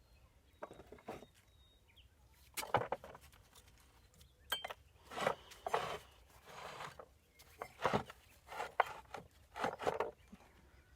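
Irregular knocks, clinks and scraping of tools on hard building materials during hand construction work, with a longer scrape about five to six seconds in.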